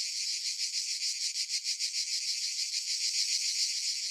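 Insects chirring in a steady, fast, high-pitched pulsing trill.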